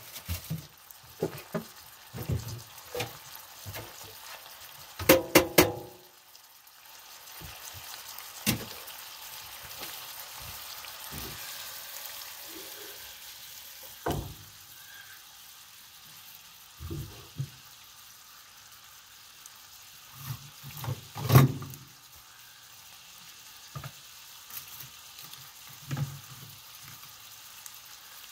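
Meatballs sizzling in hot oil in a frying pan, a steady hiss with occasional sharp knocks and clatters; the loudest clatter comes about three-quarters of the way through.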